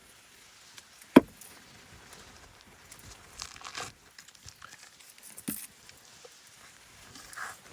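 Small handling sounds: one sharp click about a second in, a softer click later, and light rustling in between.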